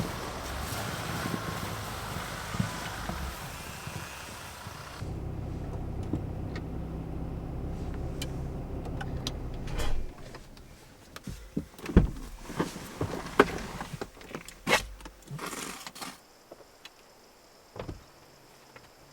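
A steady rush of wind noise, cut off about five seconds in by a low, steady motor hum lasting about five seconds. Then come a run of sharp clicks and knocks of handling, and a faint hum near the end.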